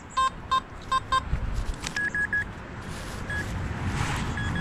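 Metal detector target tones: a quick run of short beeps at one pitch, about three or four a second, for roughly the first second, then after about two seconds a few shorter beeps at a higher pitch. The detector is signalling buried metal under the sweeping coil.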